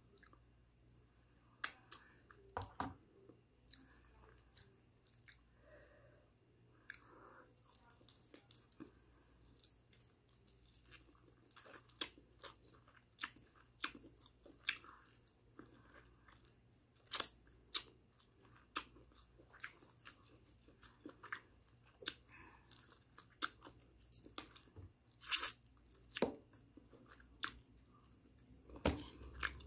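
A person eating barbecued chicken by hand, chewing close to the microphone, with irregular sharp clicks and smacks from mouth and fingers, a few of them much louder.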